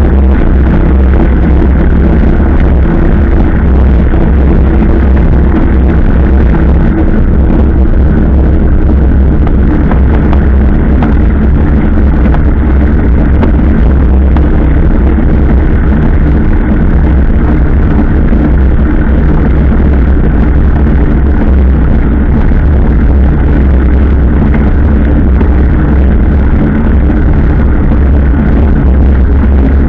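Loud, unbroken rumble of riding at a steady speed: wind buffeting the microphone, with a steady drone underneath.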